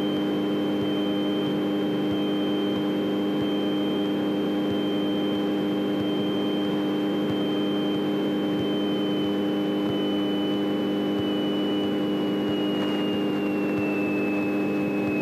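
Light training airplane's piston engine running steadily at taxi power, heard through the cockpit intercom, with a thin high whine over it that sags slightly in pitch near the end.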